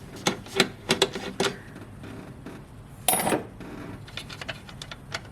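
Light metallic clicks and clinks of a socket and parts being handled around a fuse box, a quick run of them in the first second and a half, then a louder short rattle about three seconds in.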